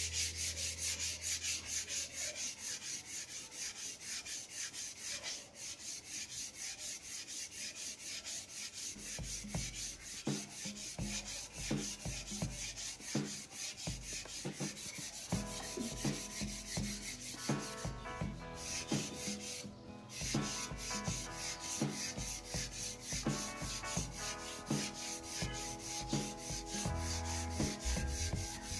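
Sandpaper rubbed rapidly back and forth along a new wooden snooker cue shaft, an even rasping rhythm of several strokes a second.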